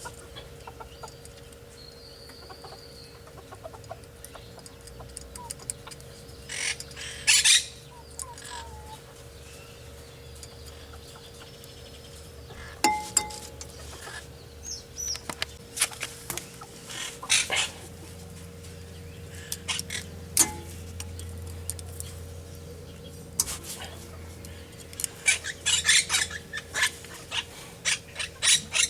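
Birds chirping and chickens clucking, with scattered sharp clicks and knocks, the loudest in a quick run near the end.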